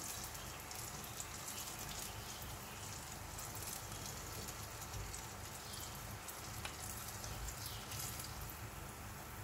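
Turon (banana spring rolls) frying in shallow oil in a pan: a steady crackling sizzle.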